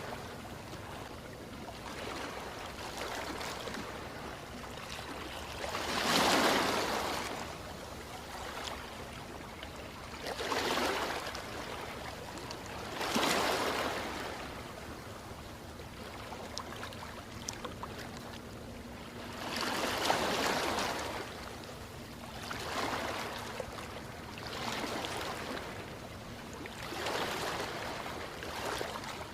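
Ocean waves washing onto a shore: a steady wash of surf with a louder surge every few seconds as each wave breaks, the biggest about six, thirteen and twenty seconds in.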